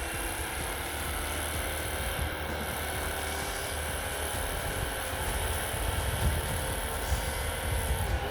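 Flywing FW450 electric RC helicopter running at a steady speed, its motor and rotor giving a steady whine of several tones, with wind rumbling on the microphone.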